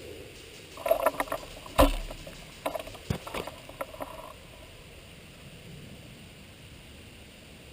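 Well L96 spring-powered bolt-action airsoft sniper rifle: a run of sharp mechanical clicks, one loud shot with a thump about two seconds in, then more clicks and knocks of the action being worked.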